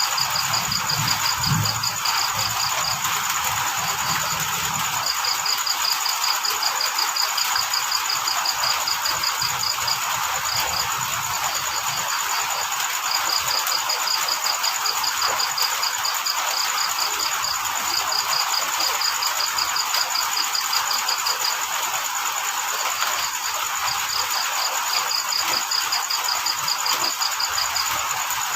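Field cricket chirping in rapid trains of pulses lasting a few seconds each, broken by short pauses, over a steady hiss of falling rain. A thin, steady high insect drone runs underneath.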